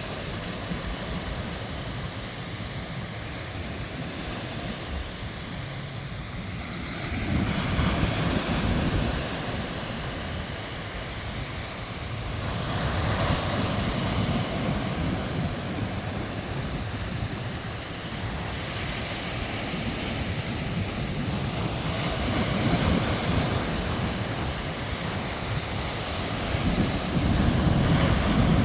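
Sea surf: waves breaking and washing ashore, swelling louder every several seconds.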